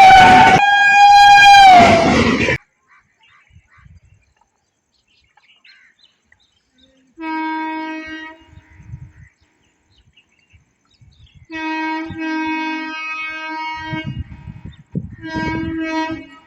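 Indian Railways locomotive horn blowing loud as a train passes at speed, its pitch dropping before it cuts off abruptly. After a few quiet seconds, more horn blasts sound, quieter: a short one about seven seconds in, a long one a little past halfway, and a short one near the end.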